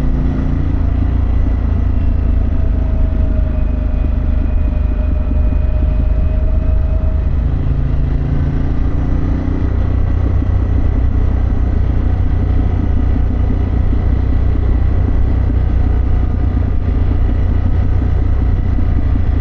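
Harley-Davidson Pan America's V-twin engine and exhaust running at road speed while riding, a steady low rumble. The engine note shifts during the first half, then holds steady.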